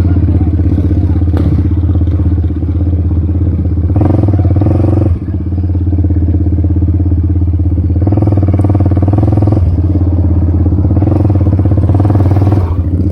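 Quad (ATV) engine running loud and close while riding, steady, with brief throttle lifts about two and a half and five seconds in.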